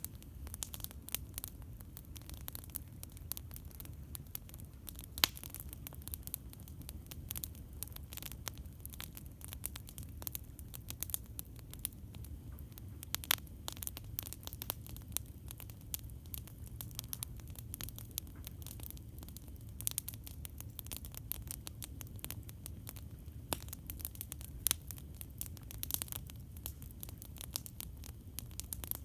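Campfire crackling: irregular sharp pops and snaps over a steady low rumble, with a few louder pops, the loudest about five seconds in.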